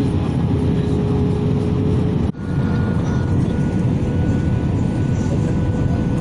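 Airbus A320 engines heard inside the cabin: a steady, loud rumble with a faint whine of engine tones on top. The sound cuts out abruptly for a moment a little over two seconds in, then carries on.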